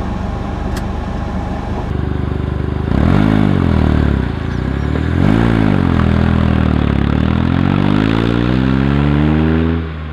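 Smart City Coupe's small three-cylinder engine running, then revving: its pitch swells up and back down twice, then climbs steadily over the last few seconds as the car accelerates.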